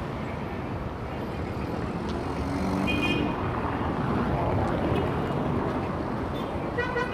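Heavy city traffic: a dense, steady mix of engines and tyres from cars, trucks and buses, swelling a little louder partway through, with a few short high-pitched tones over it.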